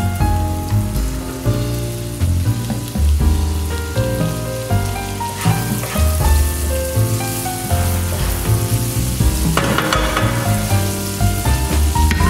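Sliced sausage and chopped garlic sizzling in butter in a frying pan as a wooden spatula stirs them, with background music playing throughout.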